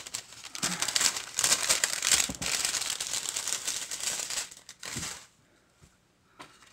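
Dense crinkling and rustling of something being handled, stopping about five seconds in.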